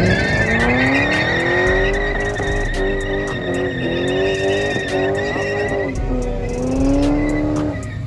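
A car engine revving up and down again and again while its tires squeal steadily in a burnout. The squeal and the revving cut off near the end.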